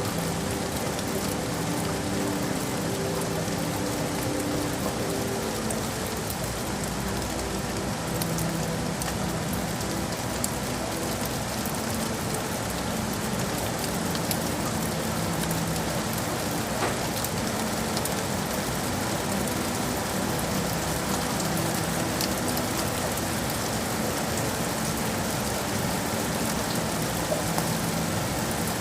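Steady rain falling, an even hiss with scattered sharper drop ticks, over a faint low hum.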